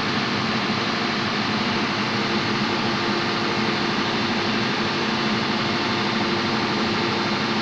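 Steady, unchanging drone of running machinery in a ship's engine room: a constant hum under a loud, even hiss.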